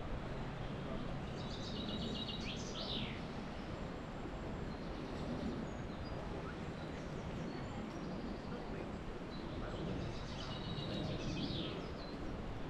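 Steady wind noise, with a songbird singing twice: each time a short phrase of quick repeated notes ending in a falling sweep, one about a second in and the other near the end.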